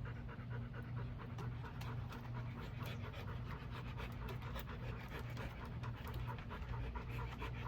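Dog panting rapidly and steadily, over a steady low hum.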